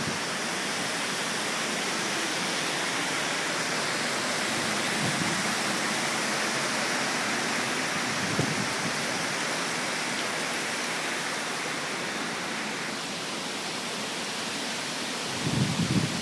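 Strong hurricane wind blowing steadily with a dense rushing noise. A few low gusts buffet the microphone, most heavily near the end.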